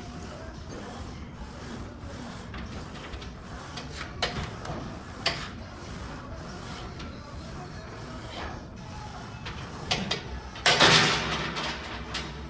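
Gym background noise with a few short metal clinks from a loaded barbell during a heavy set of Romanian deadlifts, then a loud clank near the end as the weight is set down.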